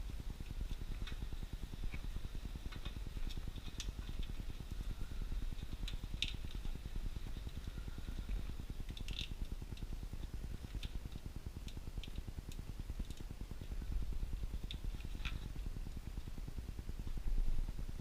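Scattered light clicks and taps of winch wiring being handled and routed, over a steady low rumble.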